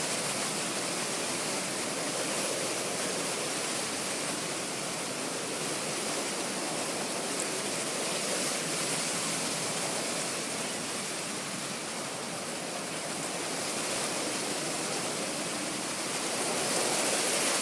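Wind rustling through tree leaves: a steady, even hiss that swells and eases gently, growing a little louder near the end.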